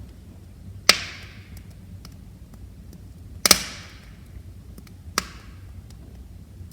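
Wood fire crackling in a fireplace: three sharp pops, each trailing off in a brief hiss, with faint small ticks between them over the low steady rumble of the flames.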